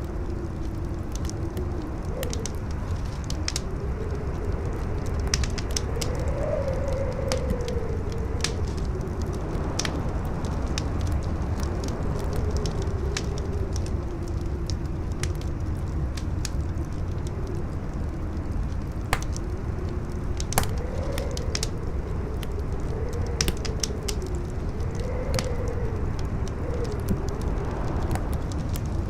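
Campfire crackling with scattered sharp pops over a steady howling wind whose whistling pitch rises and falls slowly, above a deep wind rumble.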